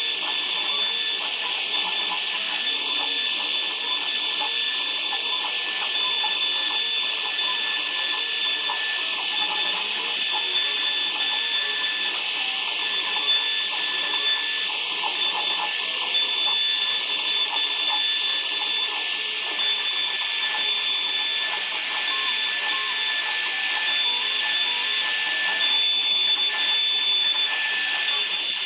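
Woodworking power tool running steadily, a constant high-pitched whine over a hiss.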